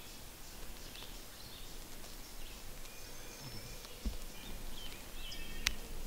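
Faint songbird chirps scattered over a steady outdoor background hiss, with a soft knock about four seconds in and a sharp click shortly before the end.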